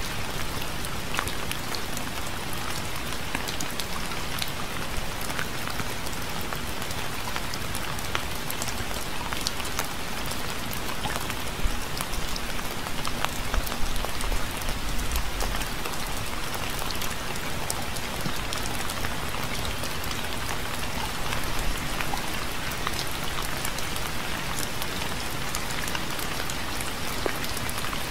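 Steady rain falling, an even hiss with many individual drops pattering on a hard surface, a few louder drops and a faint low rumble in the middle.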